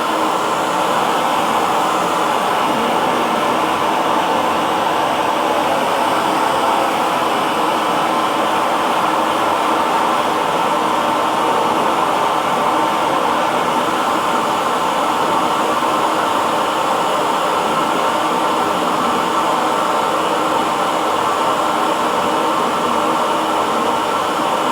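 Hair dryer running steadily, a constant airy whoosh with a faint motor hum and no change in pitch or level.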